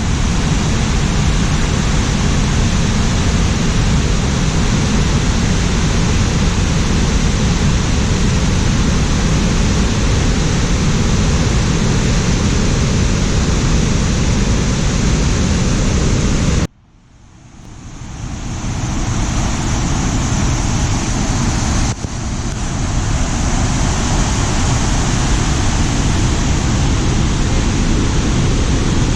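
Waterfall, a steady rushing roar of falling water. Near the middle it cuts out abruptly and fades back in.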